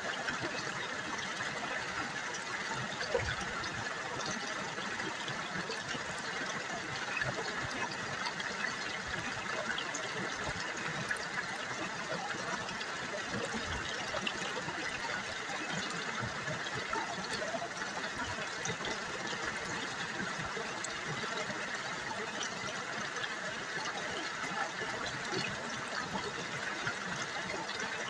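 River water babbling and trickling over stones, a steady splashy rush with many small gurgles and no pauses.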